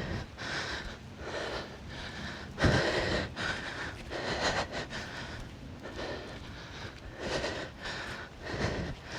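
A person breathing hard after kettlebell effort, in and out about once a second. There is a low thump at the start and another about three seconds in.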